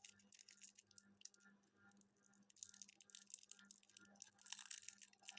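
Faint, dense crackling and rustling, many small clicks, over a steady low hum.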